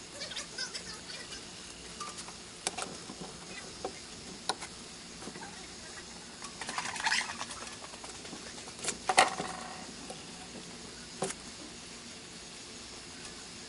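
Hand work fletching an arrow: scattered small clicks and a scratchy rustle of handling tools, feathers and shaft, the loudest click about nine seconds in.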